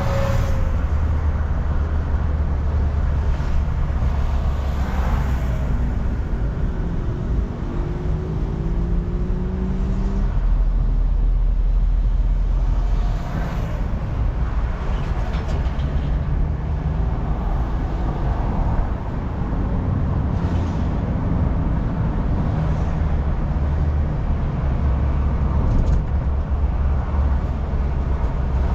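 Car cabin sound while driving in town: a steady engine hum and road rumble. The engine note rises as the car speeds up about seven seconds in, and again a few seconds past the middle.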